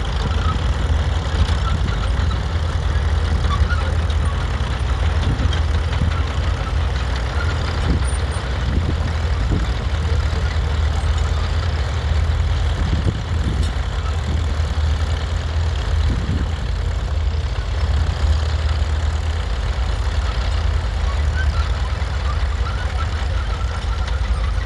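Tractor engine running steadily, a deep, even engine note that holds without change.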